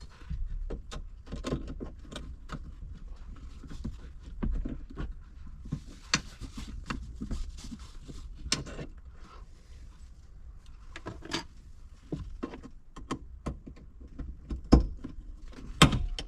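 Plastic interior trim and its snap clips being handled: scattered clicks, taps and rustling, with two sharper knocks near the end.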